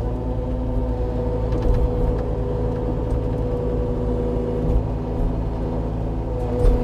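An engine running steadily at constant speed, with a few short knocks over it, the loudest near the end.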